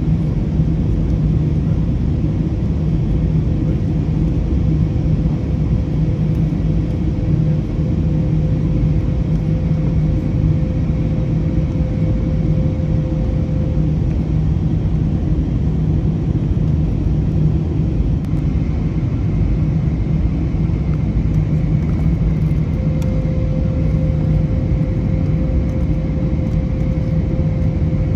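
Steady cabin drone inside an Airbus A321neo in flight on the descent, from its CFM LEAP-1A turbofan engines and the airflow over the fuselage, with a faint hum that drops out about halfway and returns near the end.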